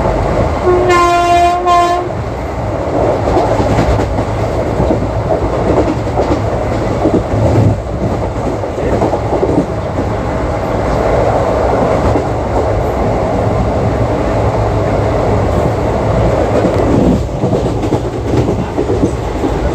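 WAP-4 electric locomotive's horn sounding a short double blast about a second in, over the steady rumble and clatter of an ICF passenger coach running along the track.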